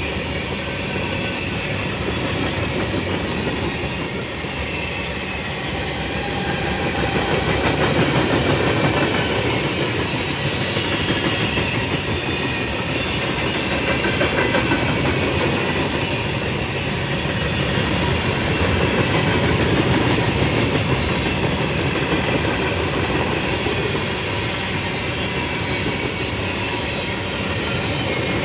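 Freight train cars rolling past: a steady, loud rumble of steel wheels on the rails, with a faint high wheel squeal running through it.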